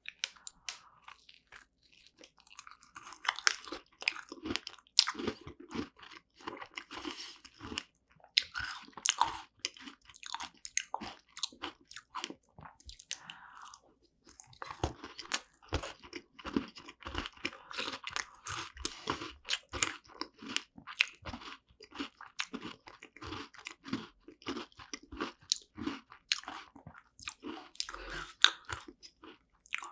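Close-miked chewing of a bite of strawberry rare cheese tart: dense wet mouth clicks and smacks, with a brief lull about halfway through.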